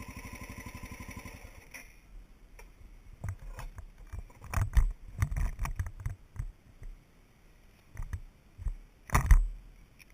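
Honda XR650L single-cylinder engine idling, then switched off about a second and a half in. After that come scattered irregular knocks and clunks, the loudest near the end.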